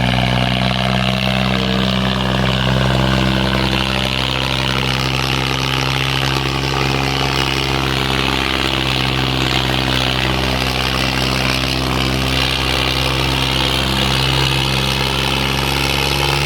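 New Holland 480 tractor's diesel engine running steadily under heavy load while pulling a weighted round, its pitch holding level.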